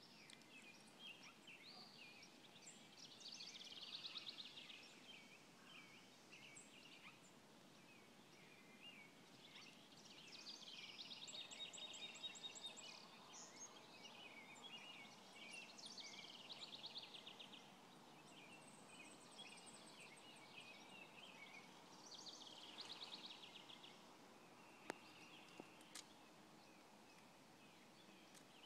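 Faint songbirds singing in the trees, with repeated trills and chirps coming in clusters over a quiet outdoor background hiss. Two sharp clicks sound about a second apart near the end.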